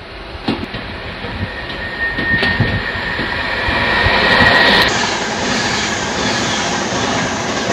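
Virgin Pendolino (Class 390 electric tilting train) passing at speed, about 100 mph: a loud rushing noise that builds to a peak about five seconds in, with a steady high whine over it, then a steady rush as the carriages run by.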